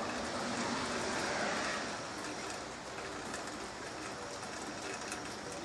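Soft, light rain falling: a steady hiss with fine patter of drops. Over the first two seconds a broader rushing sound swells and fades.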